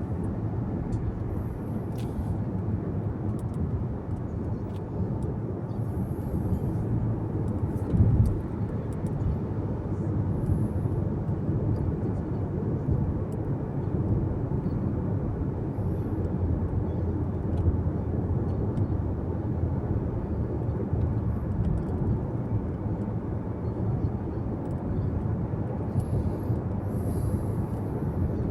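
Steady road and engine rumble inside a moving car's cabin, with a single brief thump about eight seconds in.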